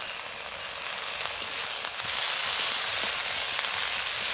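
Ginger-garlic paste sizzling in hot mustard oil with fried onions in a kadai, with scattered small crackles; the sizzle grows louder about two seconds in.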